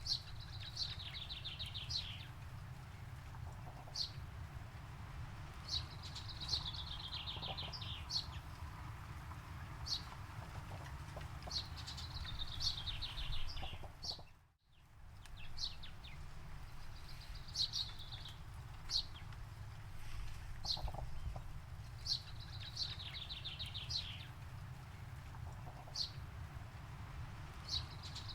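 A songbird singing: a phrase of quick notes falling in pitch, repeated about every six seconds, with single sharp notes in between, over a steady low rumble. About halfway through, the sound fades out briefly and comes back.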